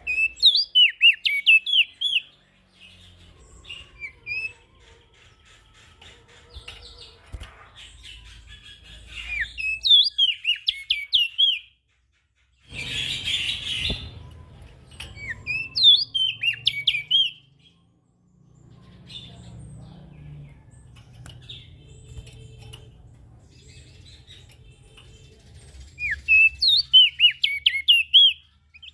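Prenjak daun songbird singing in fast bursts of high chirping notes, four bursts of about two seconds each, with a low hum in the gaps between them. A short burst of noise comes about halfway through.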